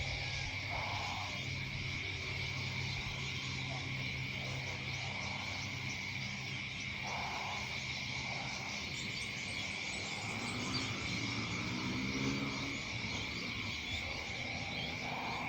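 Evening chorus of calling insects or frogs: a steady high-pitched trill held at one pitch, with short lower calls every few seconds and a low hum underneath.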